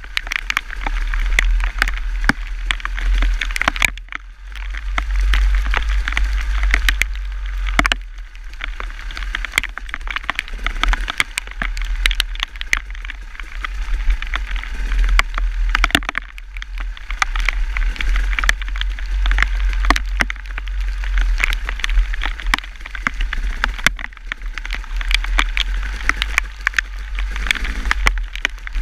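Wind rumbling on the microphone of a moving vehicle, with a steady hiss and many sharp ticks scattered throughout.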